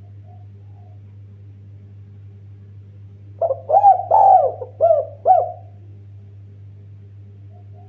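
Spotted dove (tekukur) cooing: one phrase of about five arching notes a little over three seconds in, lasting about two seconds, over a steady low hum.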